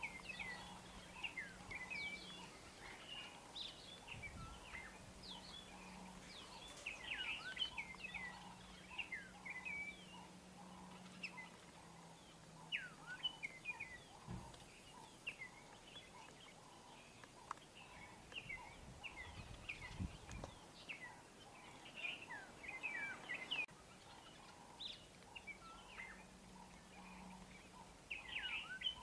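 Small birds chirping and twittering in short, quick calls throughout, with a faint hum and a few soft low thumps.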